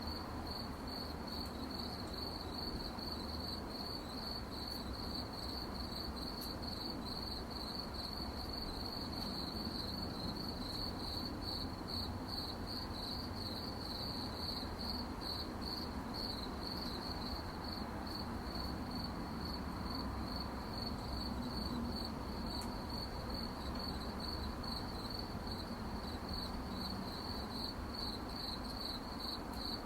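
Crickets chirping at night in a steady, fast-pulsing high trill, over a faint low background hum.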